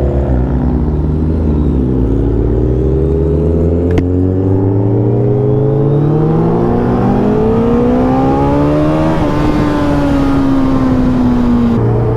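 Inline-four superbike engine accelerating under load, its pitch climbing steadily for about nine seconds before falling away as the throttle eases.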